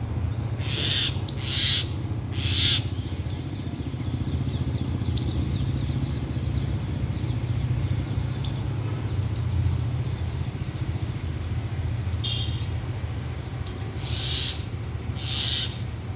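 Birds giving short, harsh calls, three near the start and three more near the end, with faint quick chirps between, over a steady low hum.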